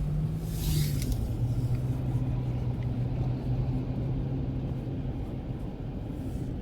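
Car interior noise while driving: a steady low engine and road drone. About a second in, a brief hiss passes and the engine note steps down in pitch.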